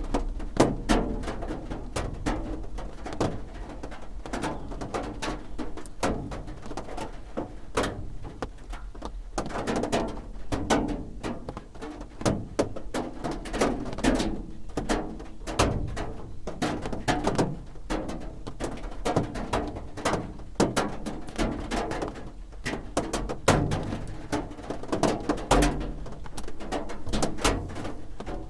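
Raindrops drumming on a roof, a dense, irregular patter of sharp taps with some hollow, pitched knocks among them.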